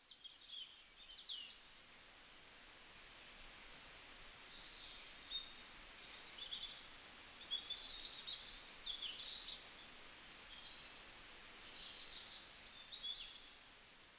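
Faint birdsong in forest: several birds giving short, high chirps and quick sweeping calls over a steady background hiss.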